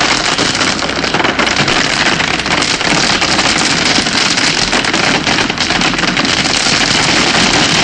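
Heavy rain pouring down: a loud, dense patter of countless drops striking a hard surface, steady throughout.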